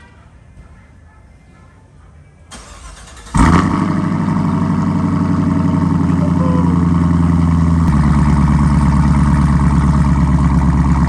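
2021 Camaro SS's 6.2-litre V8 starting: it fires about three seconds in with a loud flare, holds a fast idle, then drops to a lower steady idle about eight seconds in.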